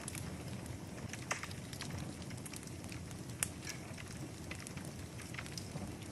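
Wood fire burning in a fireplace: a steady low rumble of flames with frequent small crackles and snaps, one sharper pop about three and a half seconds in.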